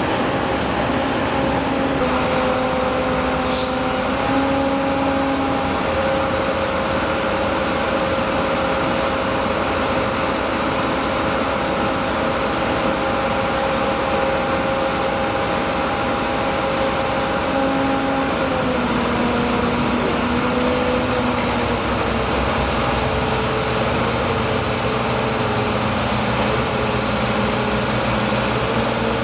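A heavy engine running steadily, its hum stepping slightly up and down in pitch now and then, as with construction machinery working on a bridge retrofit.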